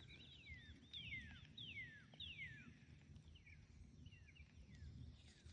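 Faint bird calls: a series of clear whistles that slide downward, about five in quick succession in the first half, then a few softer short chirps.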